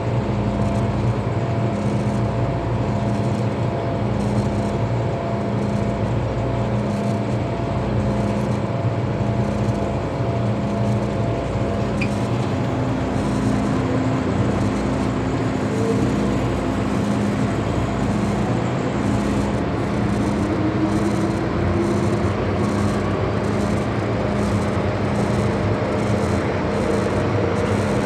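Interior running noise of an MTR M-Train on the move through an underground section: a steady rumble of wheels and running gear, a low hum that pulses about once a second, and a motor whine that rises in pitch in the second half.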